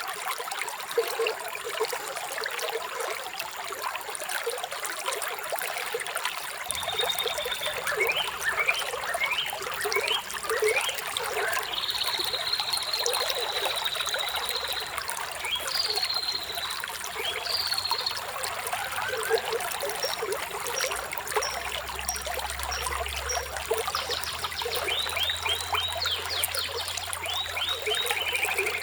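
Running water trickling steadily. From about a quarter of the way in, birds chirp over it with quick falling notes, a few seconds of trilling and rapid runs of high notes.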